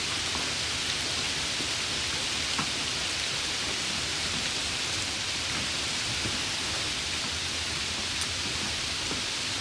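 Steady summer rain falling, an even hiss with a few louder individual drop ticks, about a third of the way in and again near the end.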